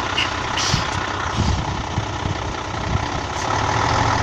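Heavy diesel engine of a Scania 112H 6x6 truck running steadily at low revs, with a short hiss under a second in.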